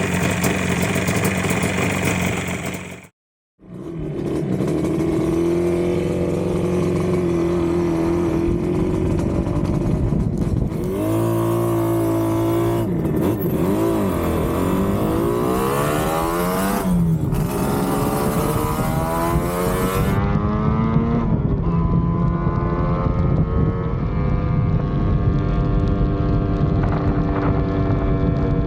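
Yamaha RD250's two-stroke twin engine running. It breaks off briefly about three seconds in, then runs steadily, is revved up and down several times around the middle, and settles back to a steady run near the end.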